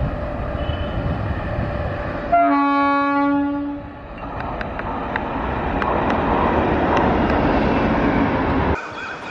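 Rumble of electric trains, then a single long train horn blast about two and a half seconds in, lasting about a second and a half. It is followed by the rising rumble and wheel clicks of a WAP-7 electric locomotive and its coaches passing close, which cuts off abruptly near the end.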